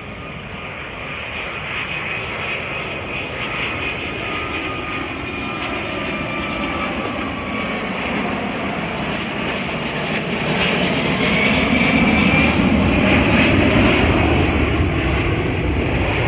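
Airbus Beluga XL's two Rolls-Royce Trent 700 turbofans as the aircraft flies past. The jet roar builds steadily and is loudest near the end, with a high whine that slowly falls in pitch.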